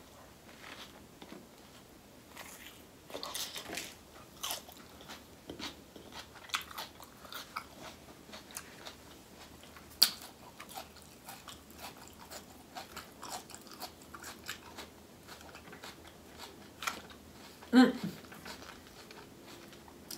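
Close-miked eating of a seafood boil: chewing and wet mouth smacks with scattered sharp clicks, the loudest click about ten seconds in.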